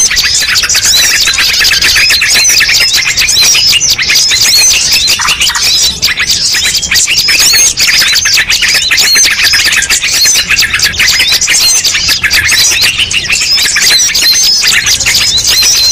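A dense chorus of many small birds chirping and twittering at once, with rapid high-pitched notes overlapping without pause: a mixed bird-luring (pikat) call recording.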